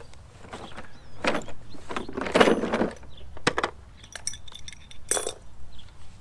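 Irregular clinks, knocks and rattles of metal tools or hardware being handled, including a brief jingle of ringing metal about two-thirds of the way through.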